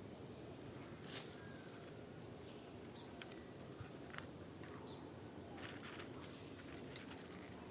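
Faint outdoor ambience with a steady low hiss, broken by a few short, sharp high ticks or chirps about two seconds apart.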